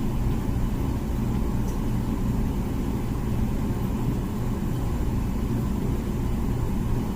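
Comfee dishwasher running, a steady low hum and rumble.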